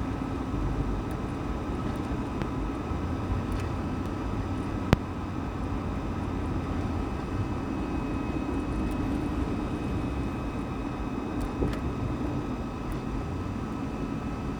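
Steady road and engine noise inside a moving car's cabin, with one sharp click about five seconds in.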